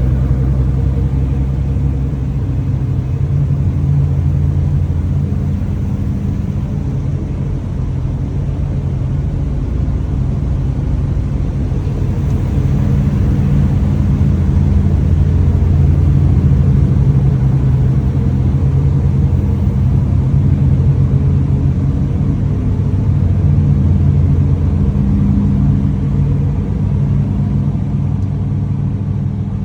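Car engine running with a steady, deep rumble, its pitch and loudness shifting slightly now and then.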